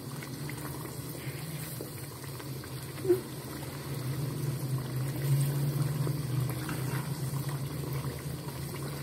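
Beef and masala frying in oil in a kadai, bubbling steadily as it is stirred with a spatula, with one brief knock about three seconds in. It is the bhuna stage, frying the meat and spices in oil until the raw taste of the masala is gone.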